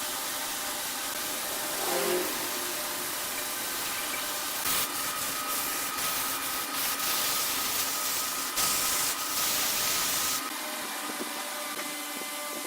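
Wood lathe motor running steadily, with a tool working the spinning wood and hissing in bursts, the longest about three-quarters of the way in.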